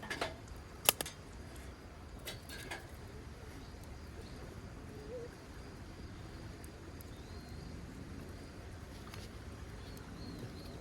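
Outdoor ambience with a low steady rumble: a few sharp clicks or knocks in the first three seconds, the loudest about a second in, then faint short bird calls later on.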